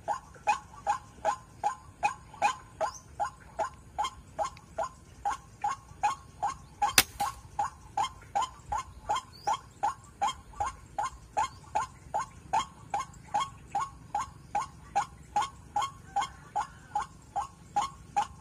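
White-breasted waterhen calls: a monotonous, evenly repeated note about three times a second. A single sharp crack cuts through about seven seconds in.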